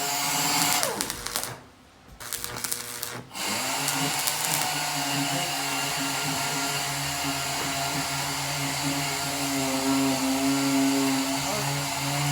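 A hand-held power tool's motor: its pitch falls about a second in, it goes quiet briefly, then it starts again and runs steadily.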